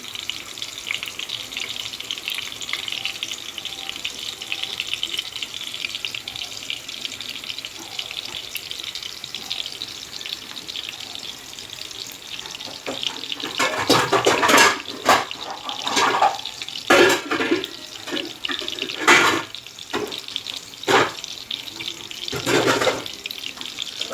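Egg-coated appalam pieces sizzling as they fry in oil, a steady hiss. From about halfway there is a run of louder, irregular clatters and crackles.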